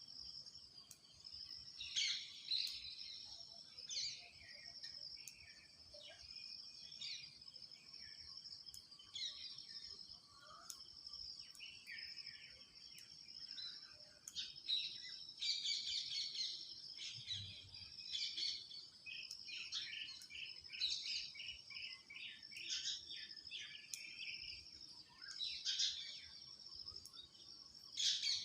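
Small birds chirping and calling on and off, with a quick run of repeated chirps about two thirds of the way through, over a steady high-pitched drone.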